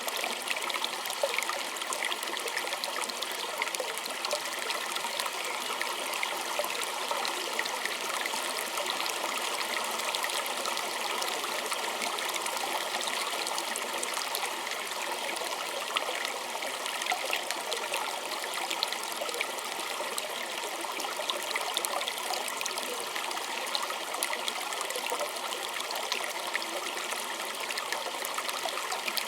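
A small stream flowing and trickling steadily, with a constant rush flecked with fine splashes and droplets.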